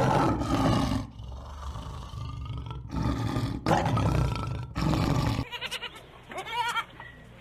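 A big cat roaring several times in rough, drawn-out calls. About five and a half seconds in, the sound cuts abruptly to quieter, wavering bleats.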